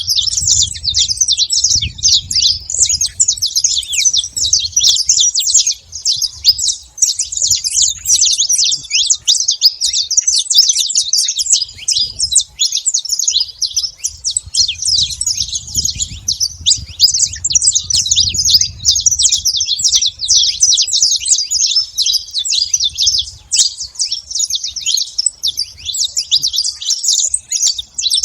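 Saffron finch singing: a dense, continuous stream of rapid high chips and trills with hardly a pause, over a low rumble.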